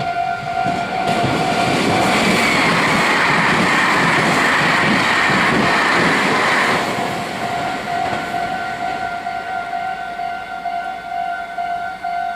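A Japanese level-crossing warning bell rings with a steady repeating electronic ding. A Meitetsu train passes through the crossing from about a second in until about seven seconds in, and its running noise drowns the bell. The bell goes on after the train has passed.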